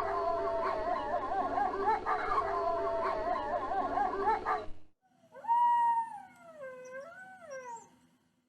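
Wolves howling in chorus, several wavering voices overlapping, which cuts off abruptly just under five seconds in. After a short gap a single wolf gives one long howl that holds its pitch, then falls and wavers lower.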